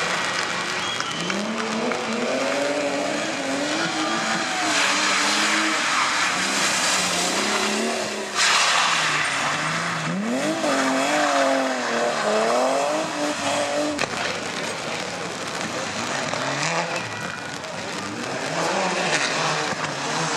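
Rally car engine revving hard through the gears, its pitch climbing and dropping again and again, with tyre noise. It gets suddenly louder about eight seconds in, then climbs steeply near the middle.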